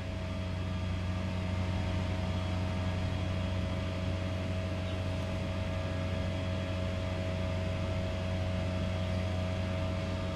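Steady mechanical hum: a constant low drone with a higher steady whine above it, swelling slightly about a second in and then holding level.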